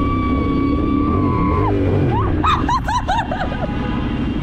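Dirt bike engine running, with a long high held tone over it that gives way about two seconds in to a quick string of short rising-and-falling tones.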